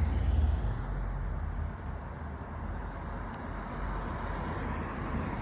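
Road traffic: a car passing on the street, its tyre and engine noise loudest at the start and then settling into steady traffic hum.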